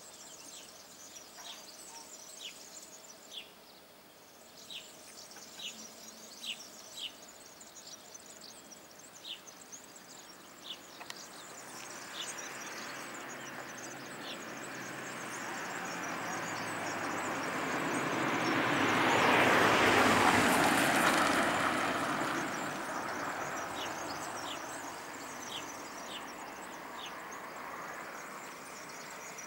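An ATR 220 diesel multiple unit passing the level crossing: its rumble and rail noise build steadily, peak about two-thirds of the way through, then fade away. Small birds chirp at the start and again near the end.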